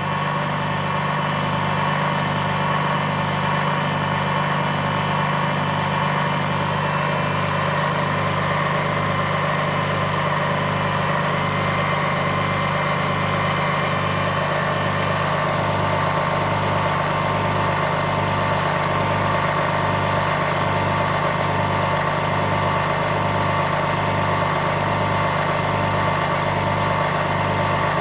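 High-voltage impulse-driven 'Liberty engine' running steadily. It makes a constant machine hum with a low throb that pulses evenly, a little more than once a second.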